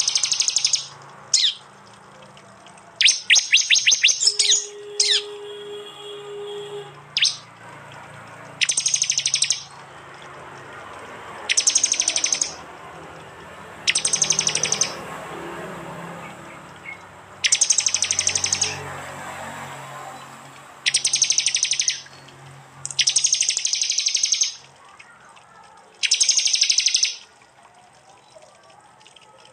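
Prenjak (prinia) calls in the sharp 'tembakan' style: repeated bursts of rapid, high-pitched chattering notes. Each burst lasts about a second and comes every two to three seconds.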